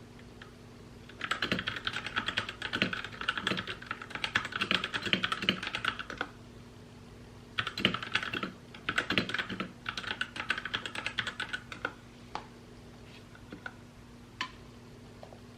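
Typing on a mechanical keyboard: a run of rapid keystrokes lasting about five seconds, then shorter bursts with brief pauses, and a few single key clicks near the end.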